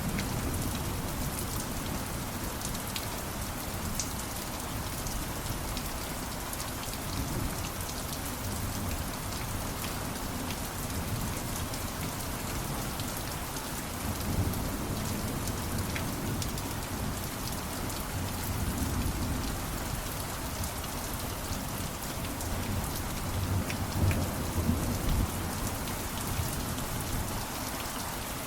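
Steady rain falling, with scattered sharp drop ticks and a low rumble that swells now and then, loudest about two-thirds of the way through.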